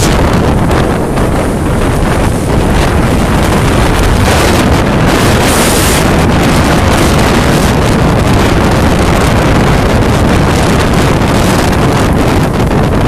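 Strong storm wind blasting across the microphone: a loud, steady rumble with no breaks.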